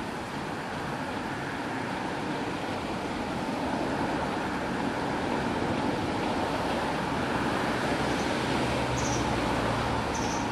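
Steady distant traffic noise, an even rumble and hiss that grows a little louder partway through, with a few short, faint high chirps near the end.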